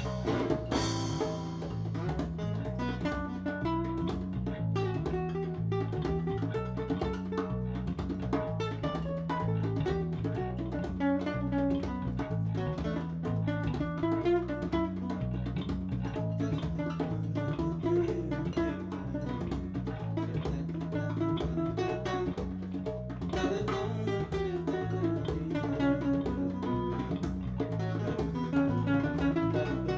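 Live acoustic band music: acoustic guitar playing a slow tune over upright-style bass, with light percussion.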